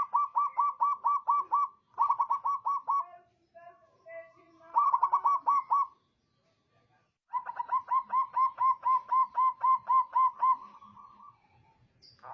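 Zebra dove (perkutut) singing: runs of quick repeated cooing notes, about five a second, in four bouts with short pauses and a few softer lower notes between them. The last and longest run starts about halfway through.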